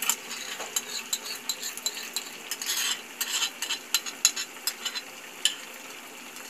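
Chicken and masala frying in a nonstick frying pan with fresh cream just added: a steady sizzle with many sharp crackles and clicks, which thin out near the end.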